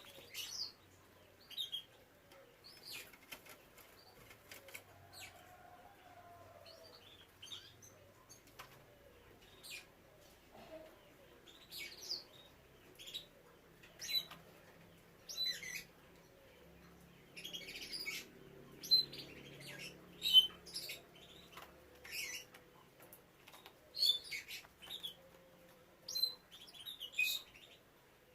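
Canaries giving short, scattered chirps, roughly one a second, with brief rustling sounds between them rather than continuous song.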